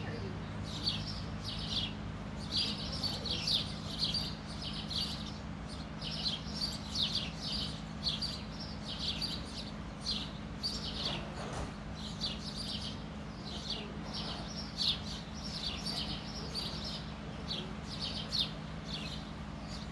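Small birds chirping, many short high chirps in quick succession, over a steady low hum.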